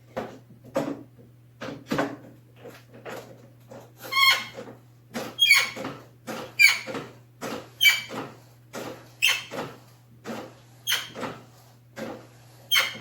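Cub Cadet XT1 lawn tractor's steering column squeaking as the wheel is worked back and forth: more than a dozen short squeaks, about one a second, some with a high whistling tone. The squeal comes from a dry plastic bushing in the steering column and from the sector shaft, freshly greased with white lithium grease and only getting better.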